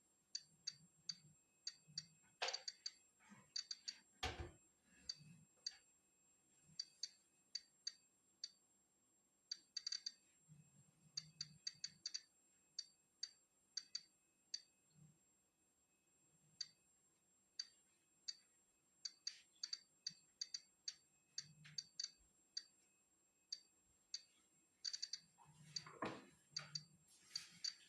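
Polon EKO-C digital Geiger counter clicking at natural background radiation: sharp single clicks at random, uneven intervals, sometimes bunched close together, sometimes a second or two apart. A couple of duller knocks come a few seconds in, and a brief rustle near the end.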